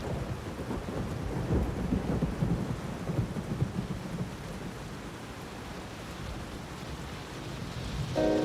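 Thunderstorm: steady rain with a rolling rumble of thunder in the first few seconds, easing to rain alone. A held keyboard-like chord comes in near the end.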